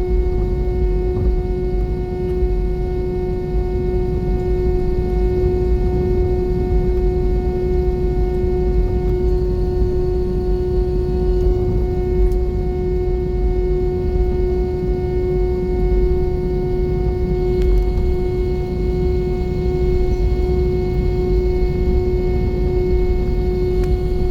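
Airbus A320 cabin noise: a steady deep rumble of engines and airflow, with a constant droning hum tone over it.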